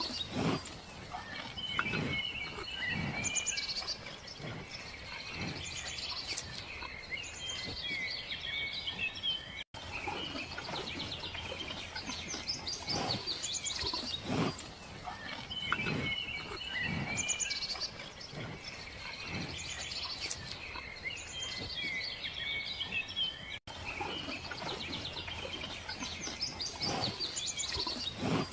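Many small birds chirping and twittering over a steady outdoor background, with short low sounds recurring about once a second underneath. The recording loops, repeating about every 14 seconds.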